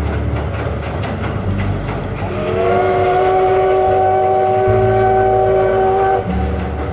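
Narrow-gauge train running with a steady low rumble; about two seconds in, the locomotive's whistle sounds a chord of several notes at once for about four seconds, then cuts off.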